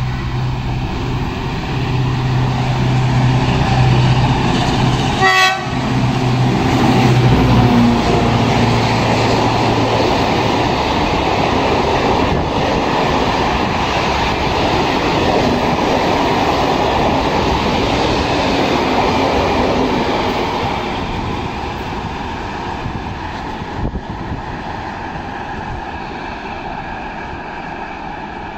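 Renfe class 319.4 diesel-electric locomotive hauling a mineral train of hopper wagons past. The train horn gives one short blast about five seconds in, and the locomotive's engine drones steadily as it passes. From about ten seconds in the wagons roll by with wheels clattering on the rails, slowly fading toward the end.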